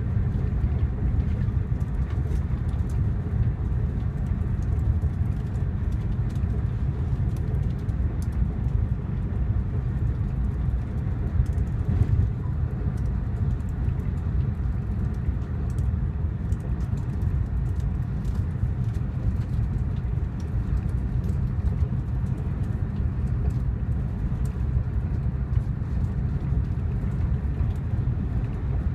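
Steady low rumble of an AVE high-speed train running at speed, heard from inside the passenger cabin, with faint scattered ticks.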